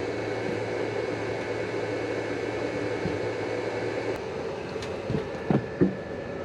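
Steady mechanical hum that partly drops away about four seconds in, followed by two or three short knocks.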